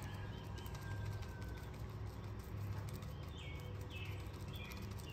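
A few faint bird chirps, clustered about three to four seconds in, over a steady low hum.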